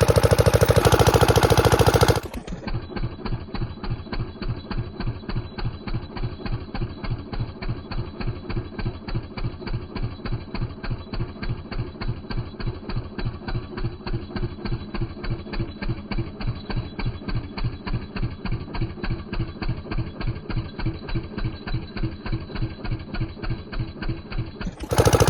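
Old Comet 5 HP single-cylinder diesel engine running steadily at idle, a slow, even beat of a few firing strokes a second. It is louder and harsher in the first two seconds, before the recording cuts to the steady running.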